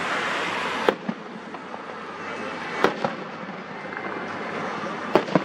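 Fireworks exploding: single sharp bangs about a second in and near three seconds, then a quick pair near the end, over a steady hiss that drops off after the first bang.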